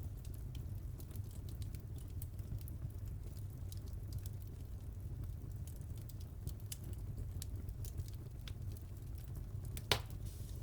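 Wood fire burning in a fireplace: a steady low rumble of the flames with scattered small crackles, and one louder pop a little before the end.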